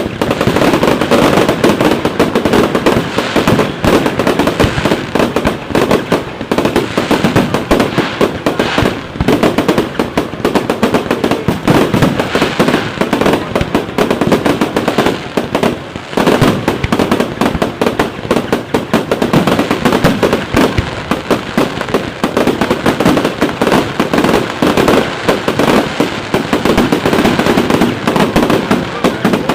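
Fireworks display in a dense, continuous barrage of rapid bangs and crackles, with no pause.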